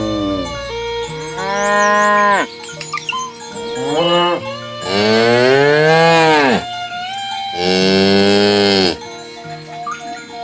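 Cows mooing, one long call after another, about five in all, each rising and then falling in pitch; the longest and loudest comes near the middle.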